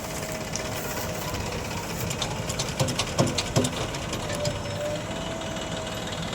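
Heavy diesel machinery running steadily, with a quick run of sharp knocks and clanks from about two to three and a half seconds in.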